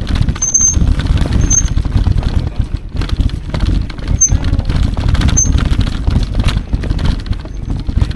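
Electric mountain bike rolling along a trail, heard as a heavy, uneven low rumble of tyres and wind on the microphone, with a few short high chirps.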